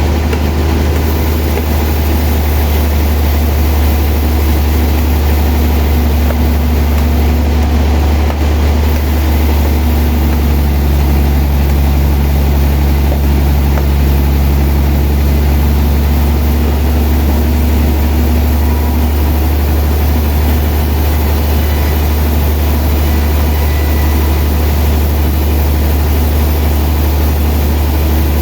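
Sawmill machinery running steadily with a loud, deep, even hum that holds without a break.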